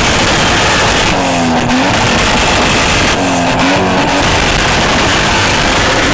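Car engine revving hard at high revs inside a continuous loud hissing roar of noise; the revs dip briefly about a second in and again around three seconds in.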